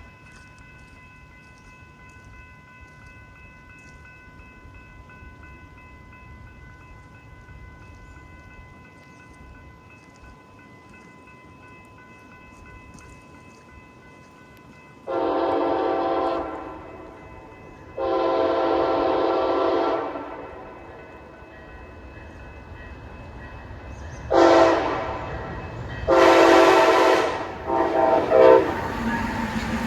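Diesel locomotive air horn sounding: two long blasts, then a short one, a long one and a few quick short toots near the end, the long-long-short-long run being the grade-crossing warning pattern.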